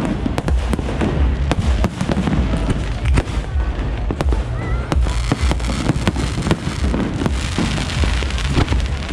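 Aerial fireworks going off in a dense barrage: many sharp bangs and crackles in quick succession over a continuous low rumble of explosions.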